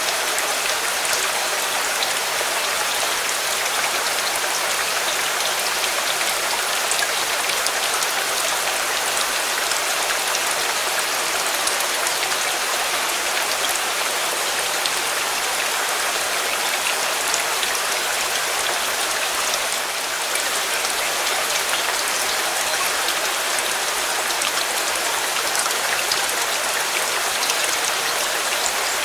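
Steady rain falling: a dense, even hiss with scattered small drop ticks.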